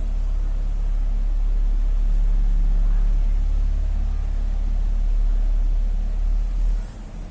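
A steady low rumble that cuts off suddenly near the end.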